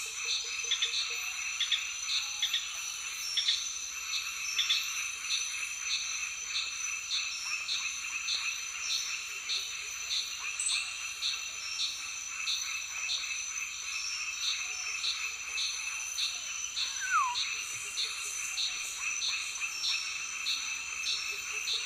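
Tropical forest chorus of insects and frogs: a steady high-pitched buzz with a pulsing call repeating about twice a second. A short falling whistle comes about seventeen seconds in.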